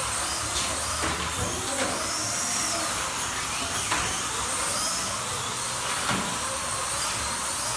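Slot cars' small electric motors whining around the track, the pitch rising and falling again and again as they speed up on the straights and slow for the turns, over a steady hiss.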